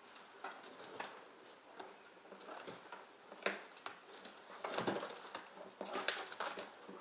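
A dog ripping and chewing at a cardboard shipping box: irregular tearing and crunching of cardboard, with sharper rips about halfway through and near the end.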